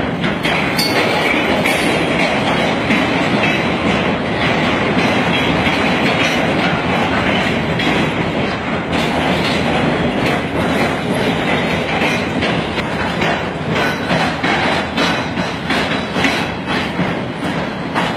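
Freight train of tank cars rolling past: a steady rumble of steel wheels on rail with the clickety-clack of wheels over rail joints, the clacks becoming more distinct in the second half.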